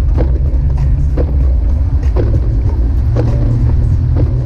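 Jeep Wrangler YJ driving: a loud, steady low rumble of engine and road noise, with a short sharp tick about once a second.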